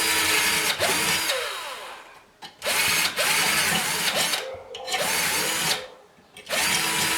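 Small electric drill run in short bursts, enlarging holes so rivets will pass through. The motor spins up with a rising whine at each start and stops between runs, about four runs in all.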